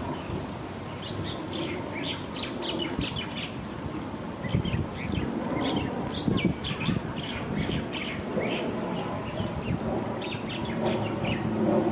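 Small birds chirping, with quick runs of short high notes again and again, over a steady low rumble of background noise.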